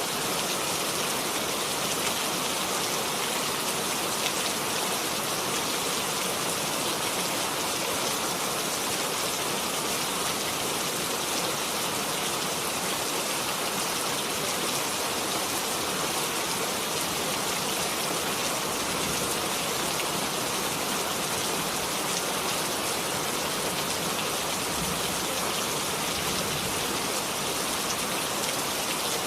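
Steady rain falling on a hard surface, a constant dense patter of drops with no breaks.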